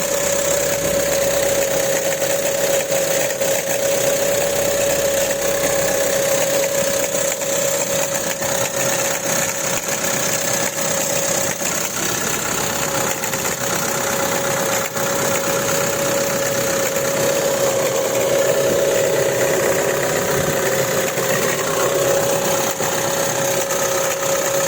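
Renault Laguna III 2.0-litre petrol engine idling with a steady whine and a rapid knocking that the owner cannot pin down.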